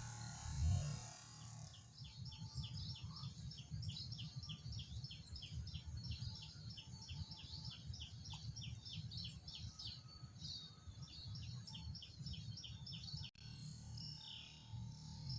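A small bird calling a fast series of short, falling chirps, about five a second, which stops a couple of seconds before the end, over low wind rumble on the microphone.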